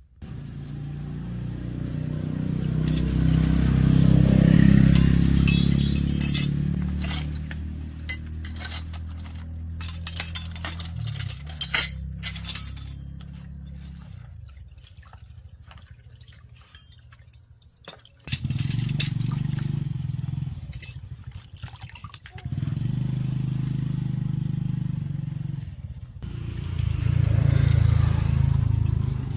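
An engine runs and rises, then slowly winds down and dies away, and later runs again in three short spells. Sharp metallic clinks and taps come between the first run and the later spells.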